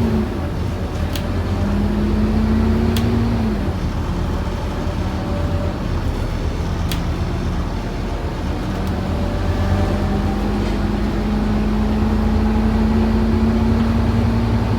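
Scania N230UD OmniCity double-decker bus heard from on board, its five-cylinder diesel engine pulling at a steady pitch, dropping away a few seconds in, then picking up again and holding steady. A few sharp clicks or rattles sound over the running hum.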